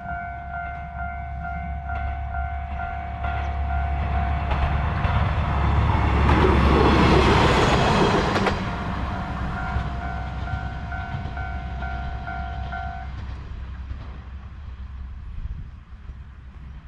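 Kanto Railway Jōsō Line diesel railcar passing. Its engine rumble and wheel noise build to a loud peak about six to eight seconds in, then fade. Over it rings a pulsing electronic warning tone, typical of a level-crossing alarm, which stops about thirteen seconds in.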